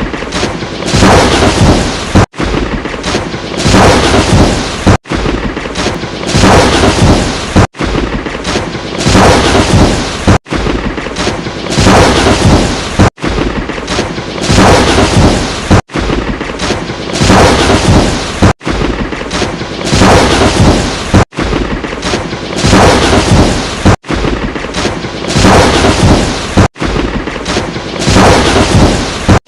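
Lightning-strike sound effect: a sharp thunder crack with a rumbling tail, looped over and over, each about two and a half seconds long and separated by a brief cut to silence.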